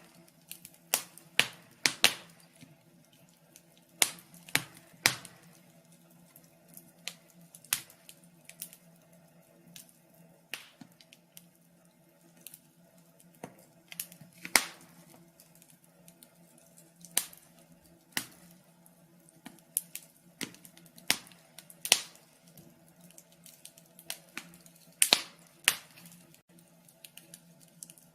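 Fire crackling: irregular sharp pops and snaps, sometimes several in quick succession, over a faint steady low hum.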